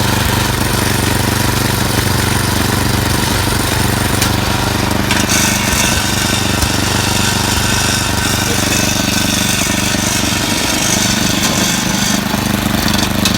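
Car engine running steadily while the car is stuck in snow, with a hiss joining about five seconds in and dropping away about seven seconds later.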